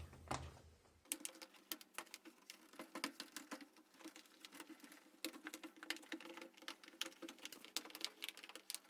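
Quick, irregular light clicks and scratching of hands working a part into the rim of a washing machine during reassembly, over a faint steady hum.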